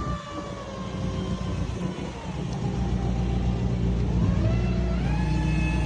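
A motor vehicle's engine running. Its pitch eases down, then climbs again about four to five seconds in, over a low rumble that grows louder.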